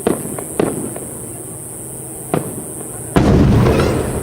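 Aerial firework shells bursting: three separate sharp bangs in the first two and a half seconds, then a louder, dense volley of bursts starting about three seconds in.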